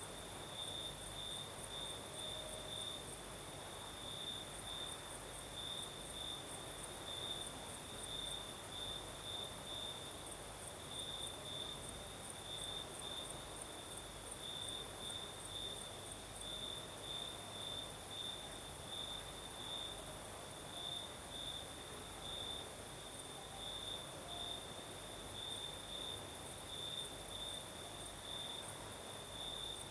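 Crickets chirping in a steady, unbroken pulsing trill, with a second, higher-pitched insect chorus above it.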